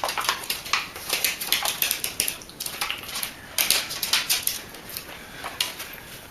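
Excited dog at feeding time, with a rapid, irregular run of clicks and clatters.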